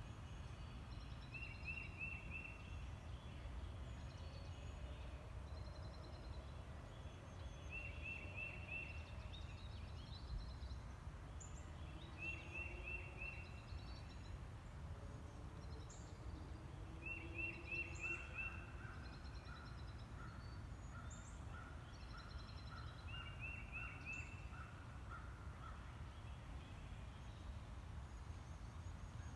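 Birds calling in a natural ambience: one bird repeats a quick burst of four or five high notes every few seconds, with fainter chirps around it and a run of evenly spaced lower notes in the second half, over a steady low rumble.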